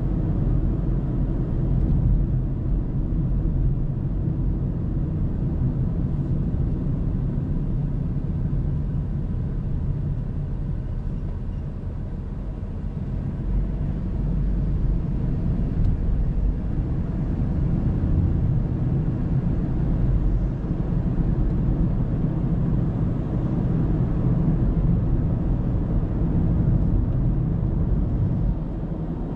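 Car driving at road speed, heard from inside the cabin: a steady low rumble of tyre and road noise mixed with engine noise.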